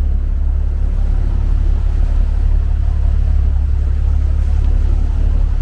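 Fishing boat's engine running steadily, a constant low drone heard aboard.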